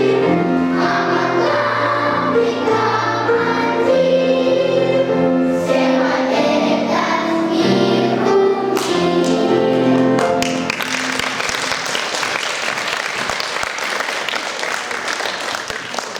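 Children's choir singing to musical accompaniment; about ten seconds in the song ends and the audience applauds.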